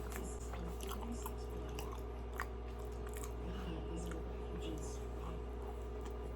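Close-up chewing of a Krispy Kreme doughnut: soft wet mouth smacks and small clicks at an uneven pace, over a steady low hum.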